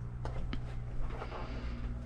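A steady low mechanical hum with a few sharp clicks and knocks over it.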